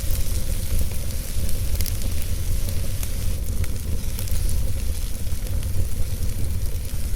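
Wood fire burning in a fireplace: a steady low rumble of the flames with a hiss and a few scattered crackles of burning wood.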